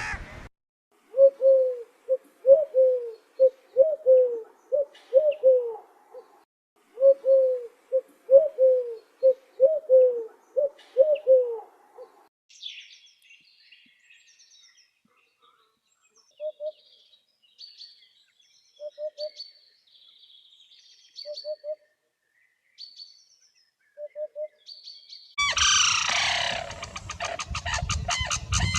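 Bird calls from different birds in sequence. First comes a run of short, repeated low calls, each falling in pitch, for about eleven seconds. Then faint high chirps mixed with a few short low notes, and near the end a loud burst of dense calling begins.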